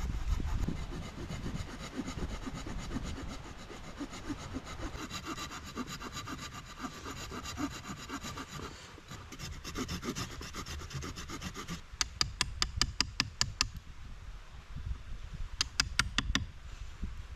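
Hand saw cutting wood with quick, even back-and-forth strokes. The sawing stops about twelve seconds in, and two short runs of rapid sharp clicks follow.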